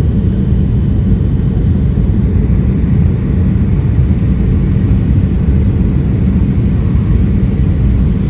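Steady cabin noise of a Boeing 737-800 in flight: an even low rumble of airflow and its CFM56-7B engines heard from inside the passenger cabin.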